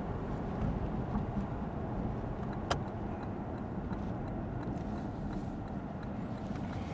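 Lexus ES 350 F Sport sedan driving, a steady road and engine noise heard from inside the cabin, with a single sharp click about three seconds in.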